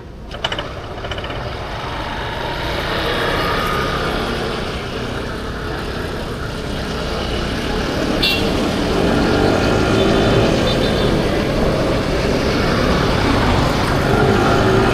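Riding noise from a 50cc scooter in traffic: wind rush and engine and road noise, growing louder as the scooter speeds up to full throttle. A sharp click sounds about half a second in.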